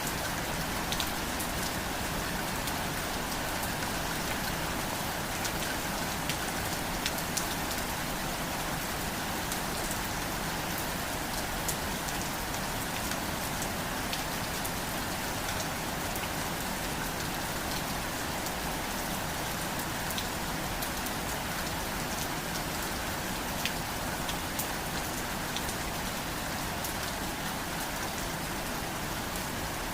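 Steady rain falling, with many individual drops ticking sharply on a surface over the constant hiss.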